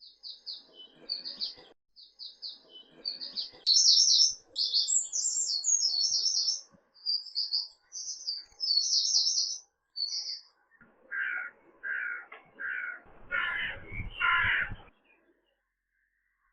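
Birdsong: small birds chirping in quick high trills, then a lower, harsher call repeated five times in a row, the last two loudest.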